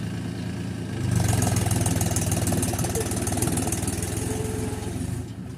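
Mahindra 265 DI tractor's three-cylinder diesel engine running; about a second in it turns louder and harsher, then eases back near the end.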